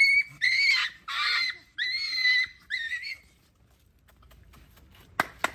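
Dog yelping in a string of shrill, high-pitched cries, about six in the first three seconds, then stopping, as it struggles against being held down for an injection.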